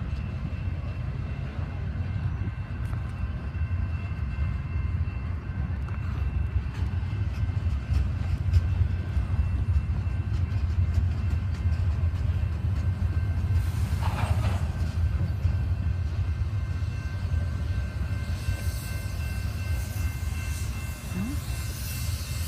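A double-stack container freight train passing with a steady low rumble of wheels on rail. A faint, steady high whine sits over the rumble, and a brief hiss comes just past the middle.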